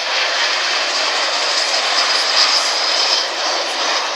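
Boeing 727 jet airliner flying overhead, its three turbofan engines making a loud, steady rushing noise with a high whine, easing off slightly near the end.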